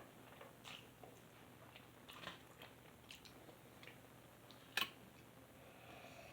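A person chewing food with faint, wet mouth clicks, and one sharp click about three-quarters of the way through.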